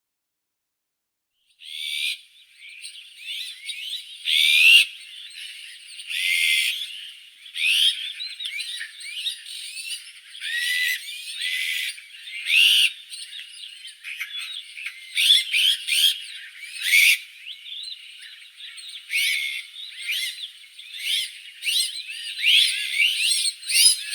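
Azure-winged magpie calling: a busy run of high chattering and whistled notes, with louder calls every second or two, starting about two seconds in.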